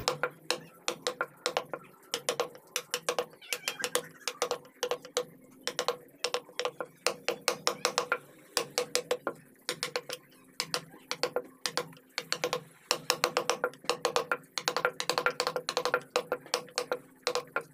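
Mallet tapping a carving chisel into wood: rapid light strikes in short runs of several taps, with brief pauses between runs.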